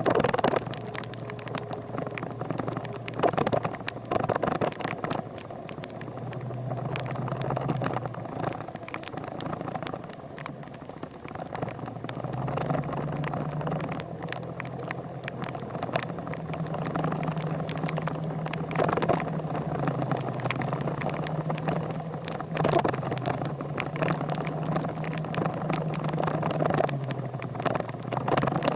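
Motorcycle engine running at a steady pace, its note stepping up and down several times, over a constant rush of noise with scattered clicks and knocks.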